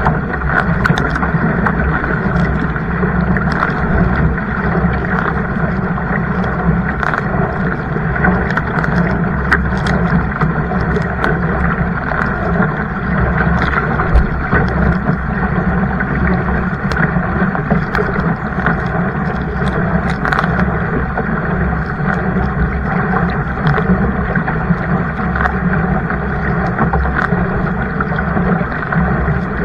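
Steady rush of water and wind noise on the microphone of a kayak under way, with scattered small clicks or splashes throughout.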